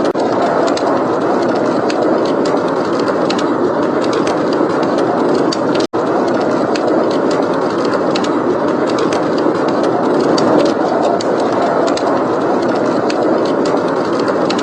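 Snowstorm wind blowing in a steady rush, with a fireplace's small crackles and pops scattered over it. The sound cuts out for an instant about six seconds in.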